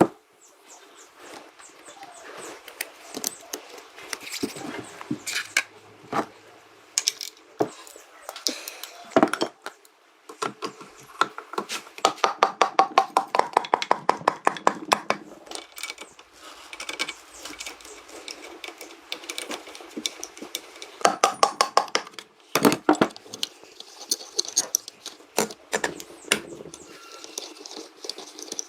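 Sharp metallic clinking and tapping of hand tools on metal, partly in fast runs of strikes.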